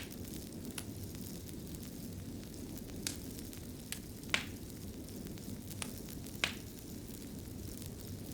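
Fireplace fire crackling over a steady low rumble, with about six sharp pops scattered through it, the loudest about four and a half seconds in.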